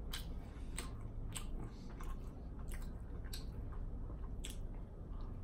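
Close-miked chewing of a chicken nugget, with sharp wet mouth smacks and clicks coming irregularly, roughly once a second.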